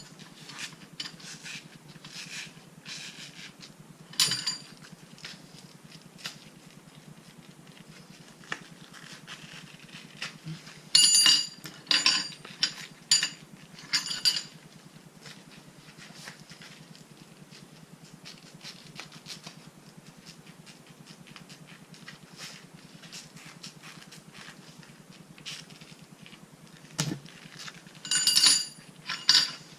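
Steel bolts being handled and clinking against each other and against metal as their old washers are pulled off: sharp metallic clinks with a brief ringing tone, in a cluster about four seconds in, a busier run of clinks in the middle, and another near the end, with faint small handling clicks between.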